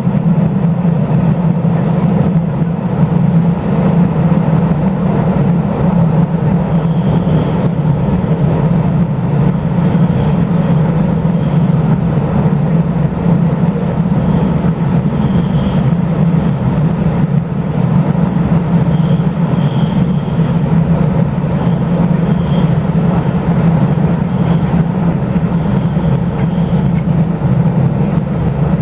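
Steady running noise of a Taiwan Railway local express train heard from inside the passenger car, a constant low drone that does not change.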